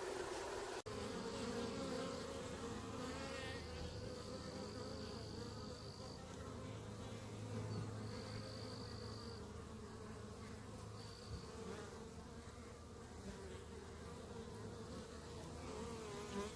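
A honeybee swarm buzzing around and into a hive box as it settles in: a steady droning hum that wavers slightly in pitch. A thin high tone comes and goes several times.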